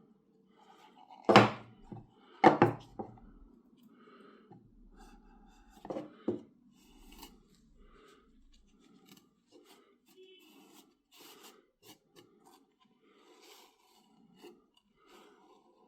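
Hand-work sounds: two sharp knocks about a second apart near the start, a softer pair of knocks around six seconds in, then light scraping and small clicks.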